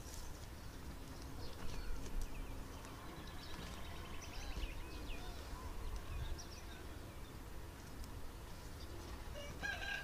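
Bird calls: a run of short, quavering high notes around the middle, over a low steady rumble.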